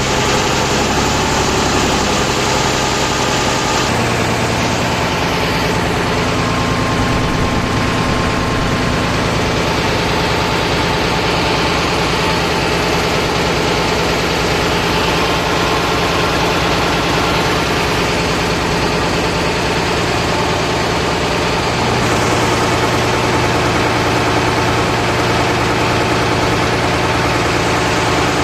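Ferry boat's engine running steadily, its note shifting about four seconds in and again about twenty-two seconds in.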